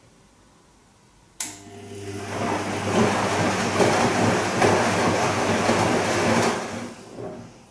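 Bosch Serie 2 washing machine on its Silk program: the drum motor starts with a click about a second in and hums as the drum turns the wet laundry for about five seconds, then slows and stops. The short turn between quiet pauses is typical of a gentle delicates cycle.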